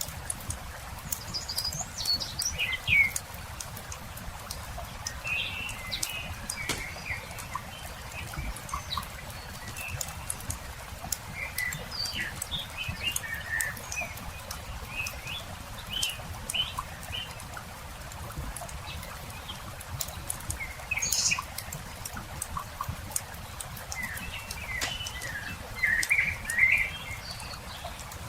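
Wood campfire crackling with frequent sharp pops and snaps, over a low steady rumble, while birds chirp and call in short scattered phrases throughout, with the liveliest bird bursts near the start, around the middle, and near the end.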